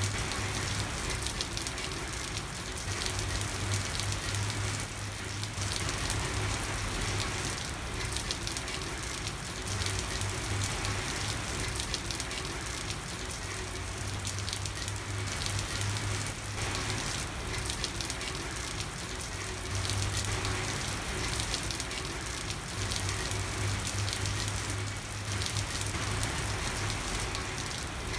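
Steady rain falling, a dense even patter, with a low hum that fades in and out every few seconds.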